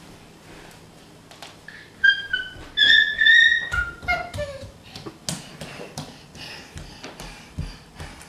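Kittens giving a run of short, high-pitched mews about two seconds in, some falling in pitch, among scattered light taps and knocks.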